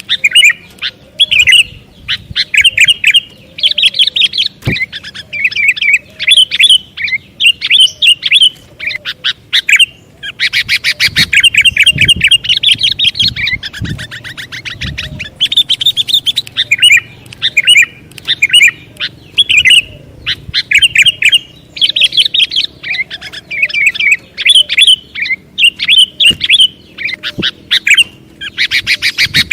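Sooty-headed bulbuls calling: loud bursts of short chirps repeated almost without pause, with a fast chattering run of notes a little over ten seconds in.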